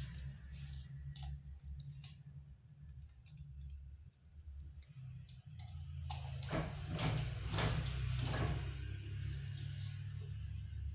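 Arashi ceiling fan running with a low, steady hum. Several short clicks and knocks come about six to eight seconds in.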